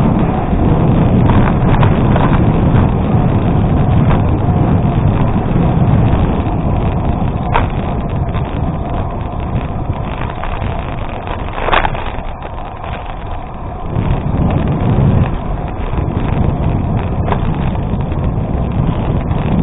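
Wind rushing over the microphone and bicycle tyres rolling on a gravel road, with a few sharp clicks and knocks from stones and the bike over bumps. The noise eases briefly about two-thirds of the way through.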